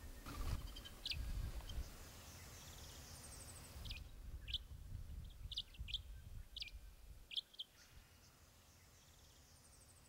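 A bird chirping: a quick series of about ten short, sharp chirps over a few seconds, after a low rumble at the start.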